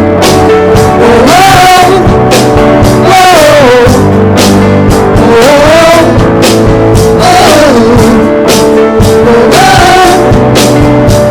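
A live worship band playing, with a singer's wordless, drawn-out "oh"s rising and falling over it about every two seconds.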